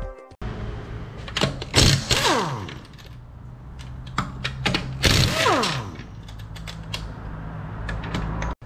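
A power tool running in short rattling bursts, each winding down in falling pitch, with sharp metal clicks and clanks between them.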